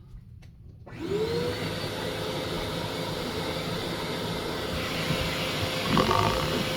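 Vacuum cleaner fitted with a pet grooming attachment switched on about a second in, its motor spinning up with a rising whine and then running steadily.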